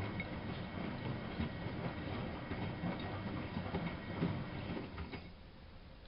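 Miele W933 washing machine running, its drum turning with a busy clattering rumble that stops abruptly about five seconds in, leaving a faint steady hum.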